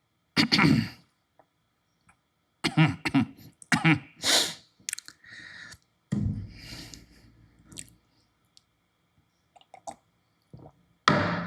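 A person making short bursts of throat-clearing, coughing and mouth sounds, with pauses between them and a few hissy and noisy bursts in the middle.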